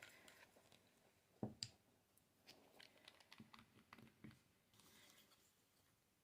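Faint scattered clicks and light taps of nail polish bottles, caps and a swatch wheel being handled, with a brief soft rustle near the end.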